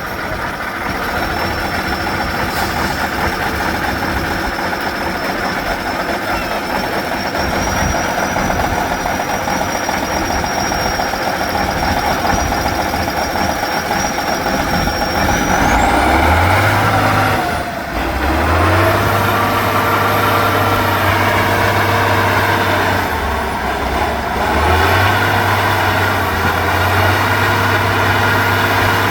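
Heavy off-road truck engine working hard and running loud, its pitch shifting about halfway through, with two short drops in level before it picks up again.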